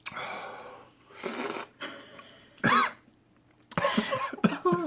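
A person coughing several times and clearing their throat, their throat burning from a habanero potato chip.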